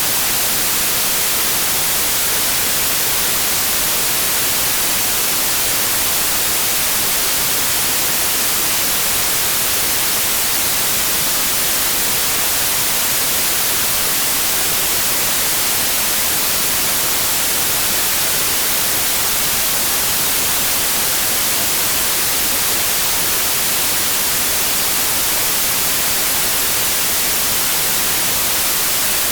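Steady, unchanging white noise: an even hiss, brightest in the high frequencies, played as a sleep aid for babies.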